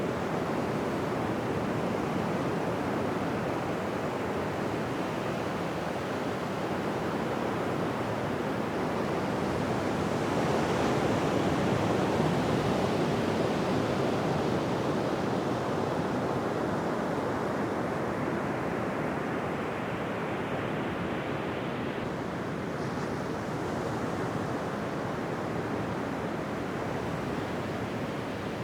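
Ocean surf breaking on a beach: a continuous wash of waves that swells to its loudest about halfway through and then eases off.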